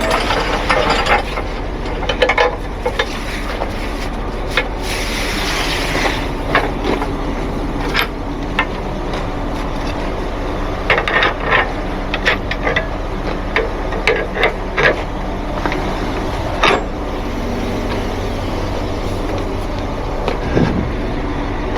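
Heavy truck engine idling steadily, with scattered metallic knocks and clicks from tow rigging being handled.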